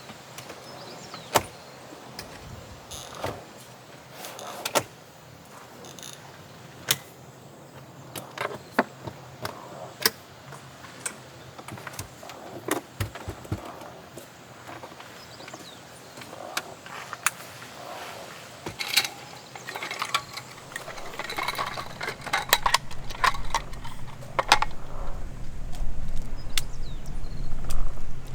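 Irregular clicks and knocks, like small objects being handled, with a low rumble building over the last several seconds.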